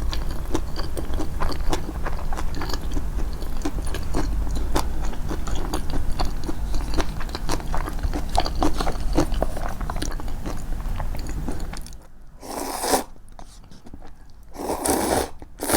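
Close-miked chewing of crunchy food: a dense run of small crunches and clicks over a low steady rumble. About twelve seconds in the chewing stops, and two short, louder bursts of noise follow.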